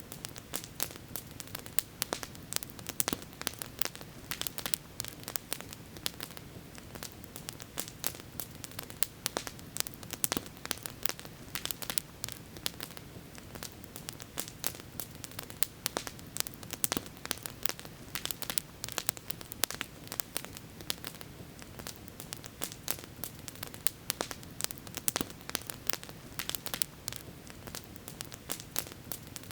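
Wood campfire crackling and popping, with many sharp irregular snaps over a steady low rushing noise.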